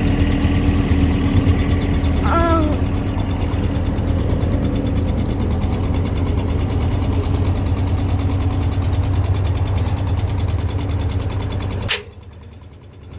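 Washing machine running with a steady low hum and rumble. There is a short pitched chirp about two seconds in, and near the end the sound cuts off suddenly with a click.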